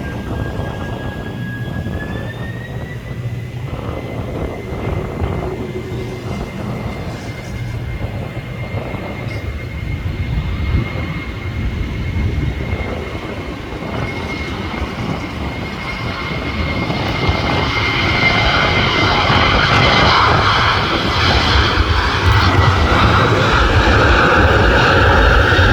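Boeing 747's jet engines at takeoff: a steady high whine that rises in pitch about two seconds in, over a low rumble. From about sixteen seconds in the noise grows steadily louder.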